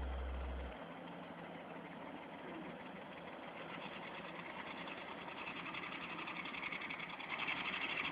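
Truck engine running steadily with a fast even chatter, growing gradually louder toward the end. A low steady hum stops abruptly under a second in.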